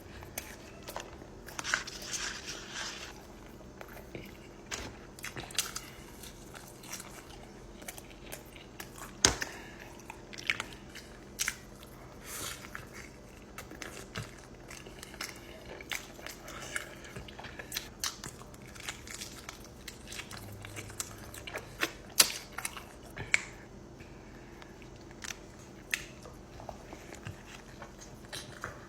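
Close-miked eating: a person biting and chewing food, with sharp wet smacks and crunches at irregular intervals. A faint steady hum runs underneath.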